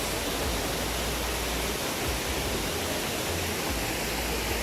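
Small waterfall: water falling and rushing in a steady, even hiss.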